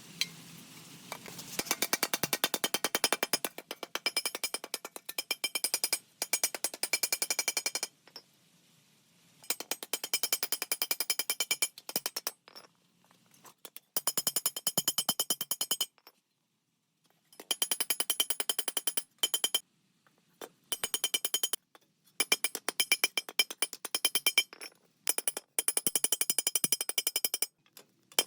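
Very rapid, evenly spaced metallic tapping with a ringing tone, in short runs of one to three seconds that stop and start abruptly.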